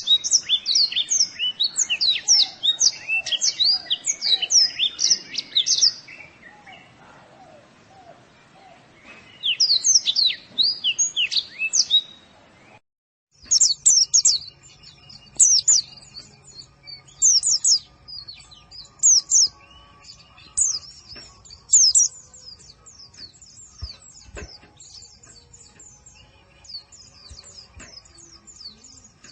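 Pleci (white-eye) singing: rapid runs of high, thin chirps that come in bursts. The song breaks off briefly about 13 seconds in, then returns as short phrases every second or two.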